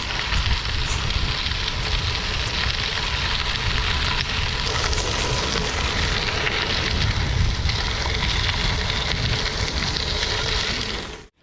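Steady hiss of gravel-bike tyres rolling over a damp track, with wind rumbling on the microphone while riding. The sound cuts off suddenly near the end.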